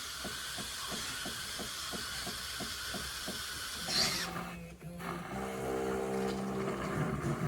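Fully automatic espresso machine running: a steady hiss with a low pulsing about three times a second. About four seconds in there is a brief louder burst, then a steady pitched hum.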